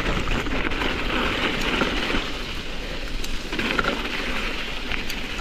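Mountain bike tyres rolling through sloppy wet snow, a steady noisy rush with a few faint ticks, with wind on the microphone.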